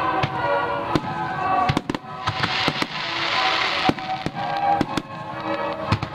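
Aerial fireworks shells bursting in a rapid, irregular string of sharp reports, with a stretch of dense hiss from about two to four seconds in.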